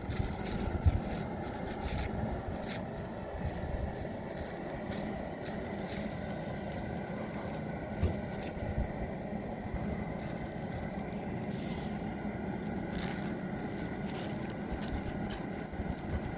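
Wood fire burning inside a hollow log: a steady low rush of flame with scattered sharp crackles and pops.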